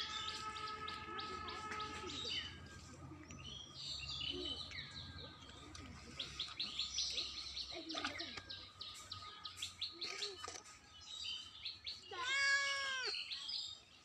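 Small birds chirping in rapid repeated trills throughout, and a cat gives one loud meow about twelve seconds in.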